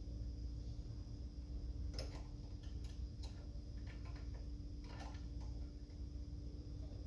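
A handful of short, sharp clicks and taps at uneven intervals over a low, steady background rumble.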